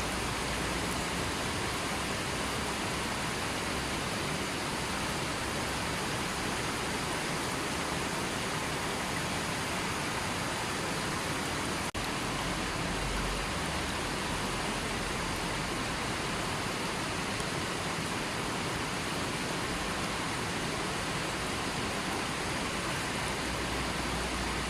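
River water flowing, a steady even rush of water noise. A single brief click about halfway through.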